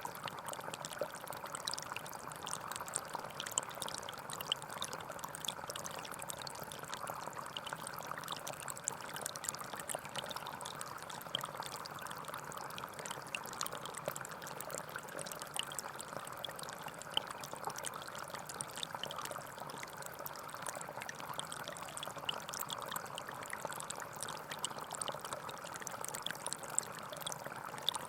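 Small forest stream flowing and trickling over stones, a steady babbling with fine splashing detail.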